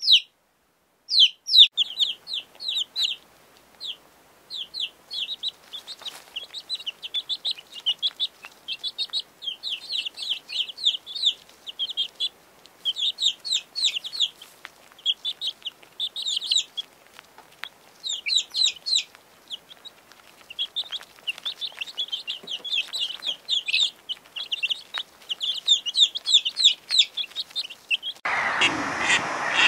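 Baby chicken chicks peeping: many short, high cheeps in quick succession. Near the end, mallard ducks quacking take over.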